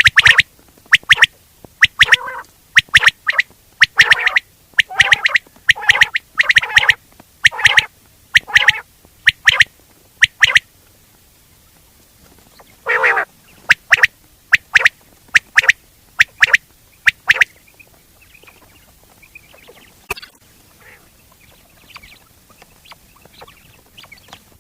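Quail calling over and over in short sharp calls, about one to two a second, with a pause of a couple of seconds before a second run. Near the end only faint, scattered calls are left.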